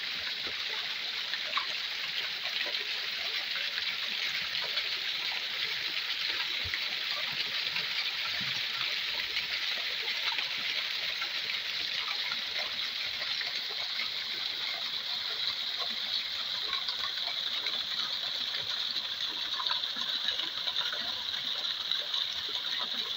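Waterfall water splashing and rushing steadily, a constant hiss-like wash without changes.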